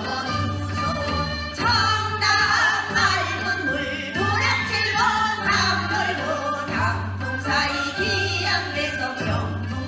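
A group of singers performing a Gyeonggi folk song (gyeonggi minyo), with gliding, wavering vocal lines over a steady low accompaniment.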